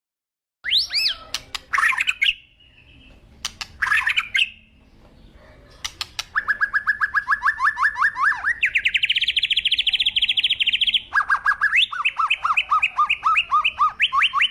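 A bird singing: a few short chirps, then from about six seconds in a run of rapid trills, each a fast string of repeated notes, shifting to a higher trill and back lower.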